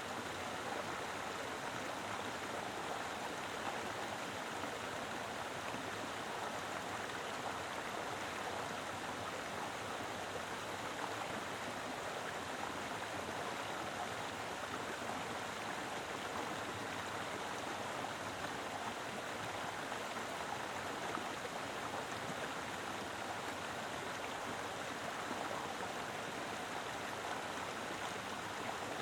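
Mountain river flowing strongly over rocks, a steady full rush of water with no breaks or changes.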